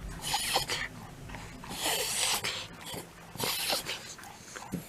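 Shiba Inu reverse sneezing: three noisy bursts about a second and a half apart.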